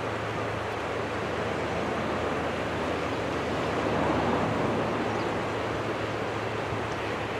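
Distant twin-engine jet airliner engines running with a steady roar, swelling slightly about four seconds in.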